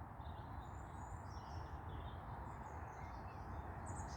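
Small birds chirping in short scattered calls over a steady low hum of distant motorway traffic.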